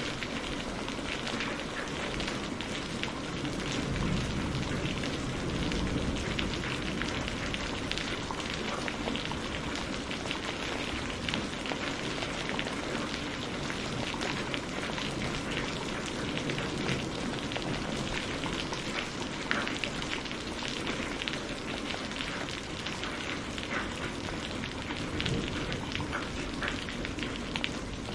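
Steady rain falling on a hard surface, with the close ticks of single drops scattered through the even hiss.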